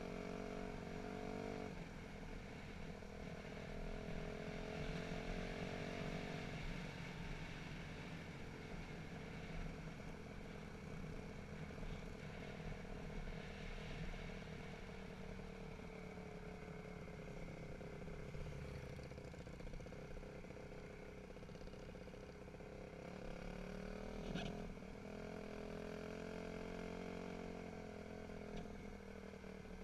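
Dirt bike engine running under way, its revs climbing and then dropping off several times, over a steady rushing noise.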